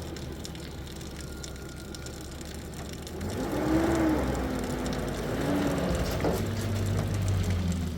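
An engine running, its pitch rising and falling a couple of times as it is revved.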